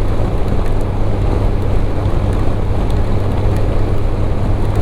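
Motorcycle riding at a steady speed: a constant low engine drone under an even haze of wind and road noise.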